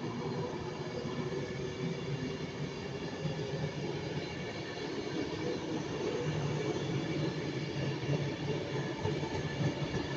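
Train running past on the line: a steady rumble of wheels on rail with a hum of several steady tones, growing a little louder near the end. Some of its wheels have flat spots.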